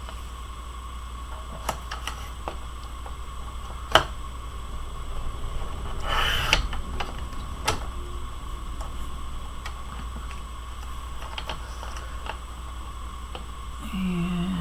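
Scattered small clicks and taps of hands working with paper and craft tools, with a brief rustle about six seconds in, over a steady electrical hum.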